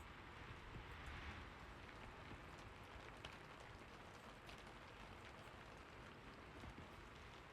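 Steady rain falling, a soft even hiss with scattered drop ticks, swelling a little about a second in.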